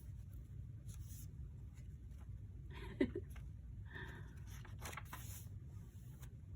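Paper junk-journal pages being handled and turned: scattered soft rustles and scrapes over a low steady hum, with one short louder knock about three seconds in.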